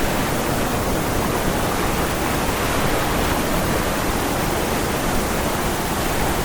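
Rushing water of a waterfall and its fast current: a loud, steady roar of falling and flowing water.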